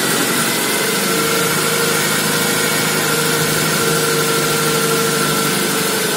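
Nissan Liberty's SR20 four-cylinder petrol engine idling steadily just after starting. It is running to drive the automatic transmission's pump, which pushes old ATF out of the disconnected cooler return hose during a fluid flush.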